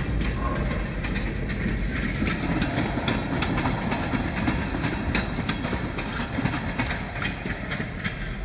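Freight train of tank cars rolling through a grade crossing: a steady rumble with a running clatter of wheel clicks over the rail joints, easing slightly near the end.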